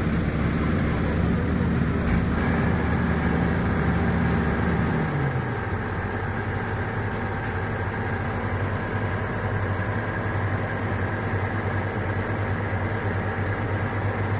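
Diesel truck engine running at raised revs, then dropping to a lower, steady idle about five seconds in.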